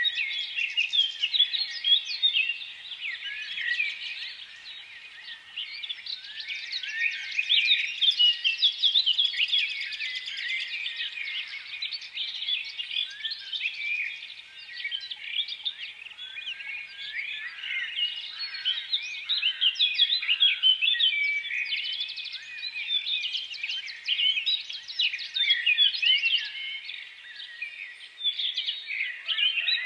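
A flock of small birds chirping together: a dense, continuous chorus of short, high, overlapping chirps that swells and fades.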